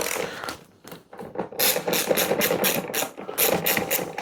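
Quick runs of sharp rasping clicks from hand tool work, several a second, in two main bursts, the second near the end.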